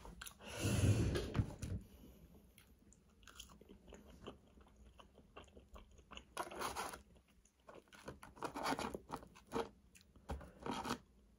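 A person biting and chewing fast food close to the microphone: a louder stretch of chewing about a second long near the start, then quieter bites and chews every second or two.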